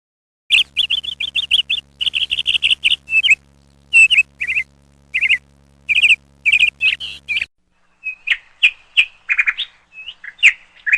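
House sparrows chirping: quick runs of short, repeated cheeps, broken by brief gaps. A faint steady hum lies under the first part and drops out partway through, where the chirping goes on in a different recording.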